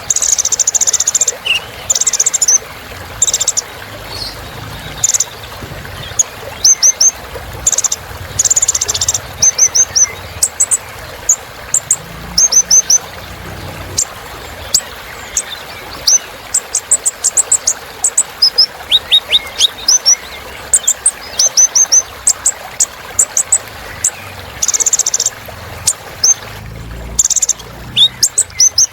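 Kolibri ninja, a small sunbird, singing: bursts of very high, rapid chirps and trills mixed with short buzzy rattles, repeated throughout over a steady background hiss.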